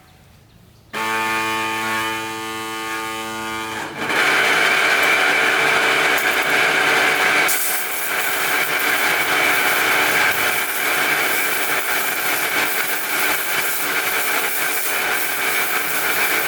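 A motorised machine starts with a steady pitched whine, then about four seconds in a loud hissing rush joins and runs on, growing brighter about halfway through.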